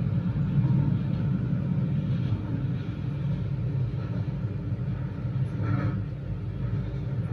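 Keio Line electric train running underground, heard from inside the car: a steady low rumble of wheels and running gear.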